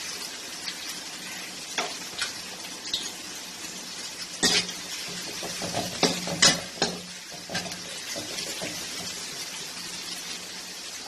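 Onions, curry leaves and green chillies frying in oil in a pan with a steady sizzle, while a spoon stirs them, scraping and knocking against the pan several times, loudest around the middle.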